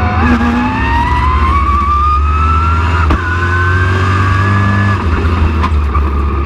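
Race truck engine at full throttle, its pitch climbing steadily for about three seconds, a brief break, then climbing again before the driver lifts off about five seconds in.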